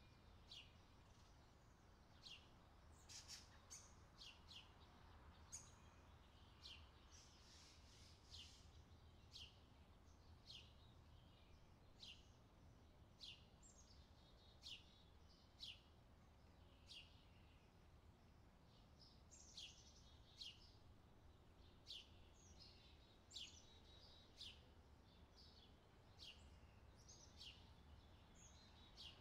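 Faint bird calls: short, sharp chirps that sweep downward, repeated about once a second, over a low steady rumble.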